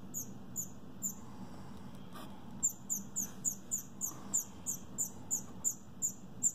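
Baby bird giving a rapid series of short, high-pitched, falling begging chirps, about three a second, with a pause of about a second and a half near the start. It is calling for food while being hand-fed.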